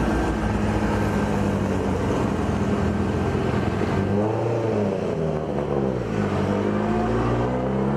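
Street-race car engines accelerating hard in a roll race. The engine note holds steady, then drops and climbs again twice, as at gear shifts.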